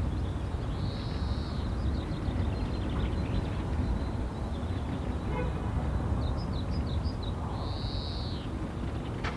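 Wild birds calling outdoors: two arched, slightly falling calls, one about a second in and one near the end, with a quick run of short chirps just before the second. A steady low rumble sits under the birds throughout.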